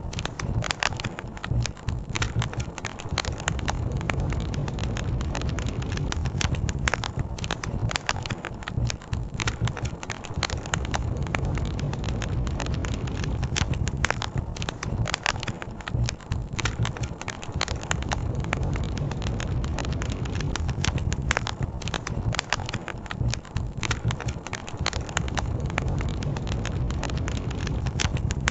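Campfire crackling: dense, irregular pops and snaps from burning wood over a steady low rush, which fits the river running.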